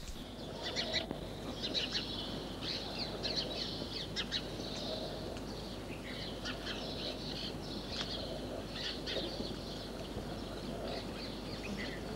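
Many birds chirping and trilling in quick, overlapping calls, over a low steady hum.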